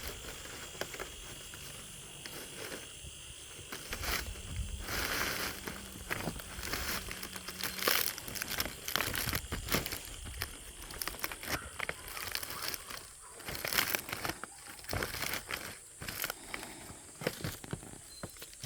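Dry palm leaves rustling and crackling as they are handled, in irregular bursts of crinkling.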